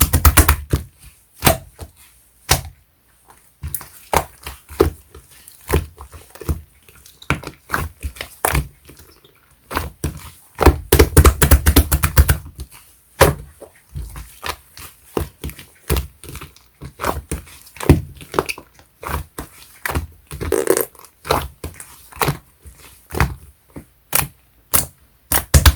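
Clear slime mixed with clay slime being pressed and kneaded by hand, giving a run of sharp clicks and pops from trapped air. A dense burst of squishing comes about eleven seconds in.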